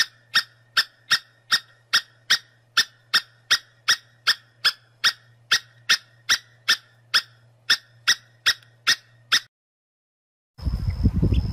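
A long, regular run of short, high squeaks, about two and a half a second, each one the same, over a faint low hum. The run stops about nine and a half seconds in, and a louder, noisier sound starts near the end.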